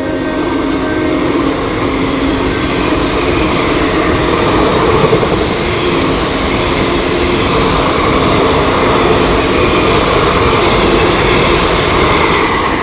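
Passenger train hauled by a WAP-4 electric locomotive running past at speed, wheels and coaches on the rails making a continuous loud rush. It swells around the middle and eases off near the end.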